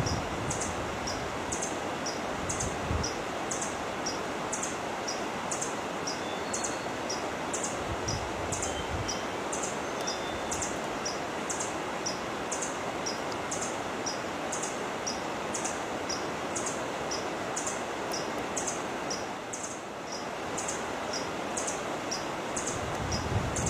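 A short, high chirp repeated evenly about twice a second over a steady hiss of background noise.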